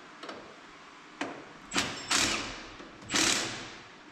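A few light clicks, then two sharp hissing bursts about a second apart, each fading away over about half a second.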